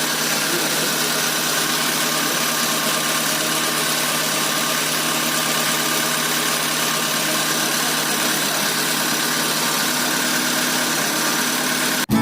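Proton Iswara's rebuilt Magma 4G13 SOHC engine, bored up to 1.5 litres with 4G15 pistons and fitted with a 272° racing cam, running steadily at an even speed. The sound cuts off abruptly at the very end.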